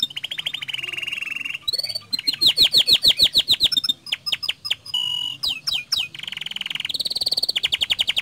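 Domestic canary singing a fast, unbroken song of rapid repeated trills and rattling rolls, with short whistled notes and quick rising sweeps between phrases.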